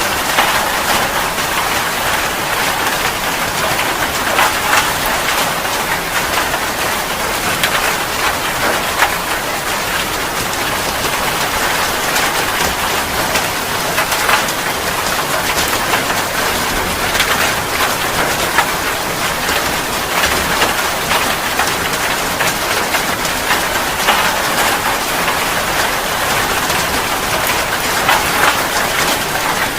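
Steady rain falling, an even hiss dotted with many sharp ticks of individual drops hitting close by.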